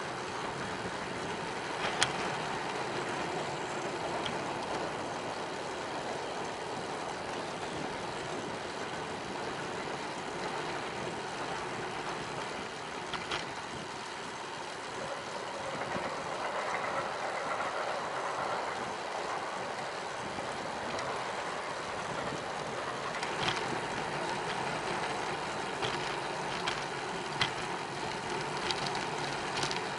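Steady wind and tyre noise of a bicycle riding along a paved cycle path, with a few sharp clicks scattered through it and the noise swelling for a few seconds past the middle.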